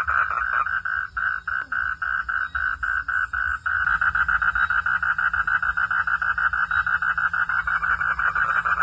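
Frogs calling at night in a rapid, even train of pulses, about five a second. About four seconds in the chorus thickens and gets louder as more calls overlap.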